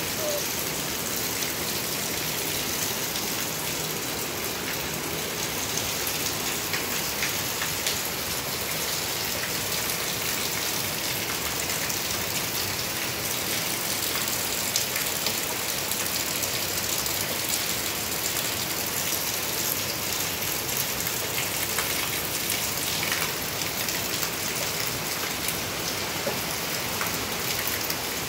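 Heavy rain falling steadily: a dense, even hiss of drops on leaves and surfaces, with many small close drops ticking through it.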